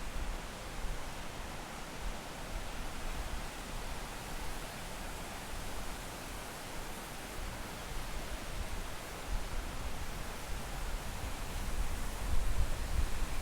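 Steady rushing hiss of a waterfall's cascading water, with low rumbling that swells near the end.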